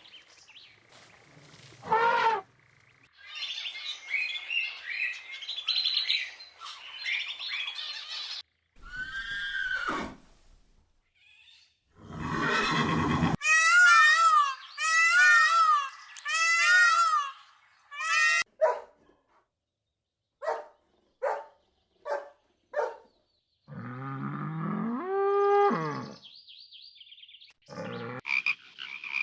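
Calls of several different animals, one after another, each short burst separated by brief gaps. They include a run of repeated high rising-and-falling calls in the middle and a lower, longer call near the end.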